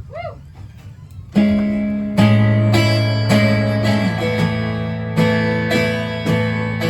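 Guitar intro of a live band's song: strummed chords start about a second and a half in, joined by a low sustained bass note shortly after.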